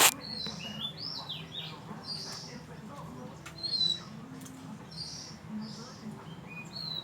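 Oriental magpie-robin singing: phrases of clear whistled notes that step up and slide down in pitch, repeated every few seconds, with shorter high notes in between. A brief loud knock right at the start.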